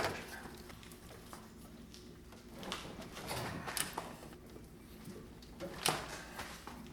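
Scattered light knocks and clicks from engine parts and tools being handled, the sharpest about six seconds in.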